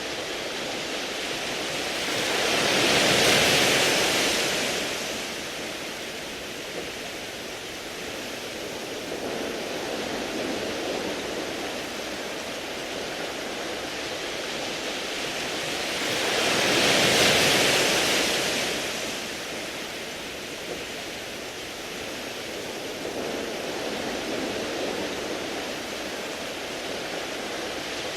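Sea waves washing up over a beach of smooth round pebbles: a steady hiss that surges loudest twice, a few seconds in and a little past halfway, with smaller surges between.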